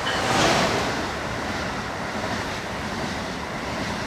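Fast electric passenger train rushing past, a steady whooshing noise.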